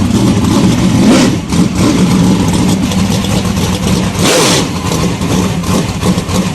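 A race car engine running loud, its sound swelling and easing.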